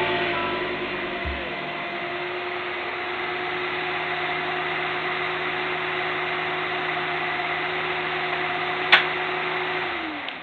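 Steady mechanical whirring with a hum that winds down and falls in pitch near the end; a single sharp click about a second before it winds down.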